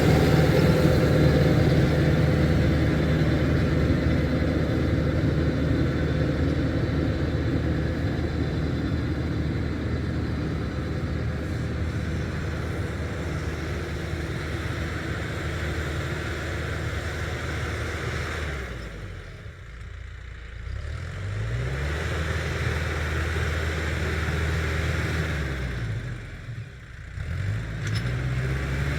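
Farm tractor engine running steadily while working a rotary tiller. Twice, about two-thirds of the way in and again near the end, the revs drop and then climb back up.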